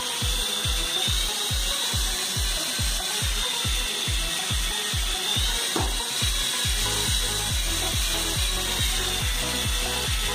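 Small remote-controlled toy helicopter running: a steady high electric-motor whine over a regular low thumping about three times a second, which quickens about two-thirds of the way in.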